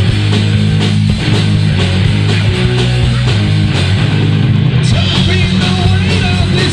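Heavy metal band playing: distorted electric guitar and bass holding low notes over a steady drum beat. About five seconds in the top end brightens and a wavering higher melody joins.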